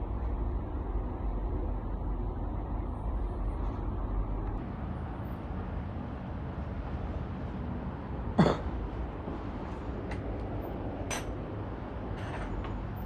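Steady low mechanical rumble with a few sharp metallic clicks in the second half, and one short squeal that drops steeply in pitch about eight seconds in.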